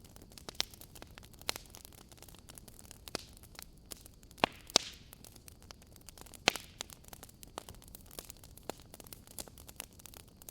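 Wood fire in a fireplace crackling, with sharp pops at irregular intervals over a faint hiss. The loudest pops come a few at a time around the middle.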